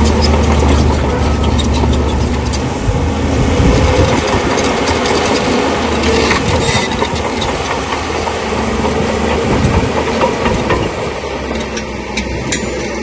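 Crawler bulldozer working: its diesel engine running under load while the steel tracks clank and stones grind and knock. The engine's low hum is strongest for the first few seconds, and the clatter of knocks runs on throughout.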